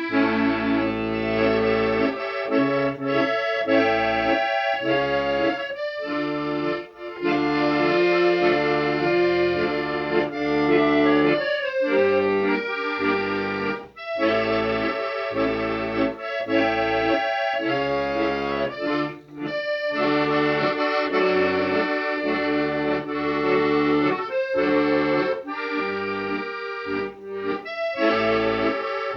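Accordion music: sustained chords and melody, steady and continuous.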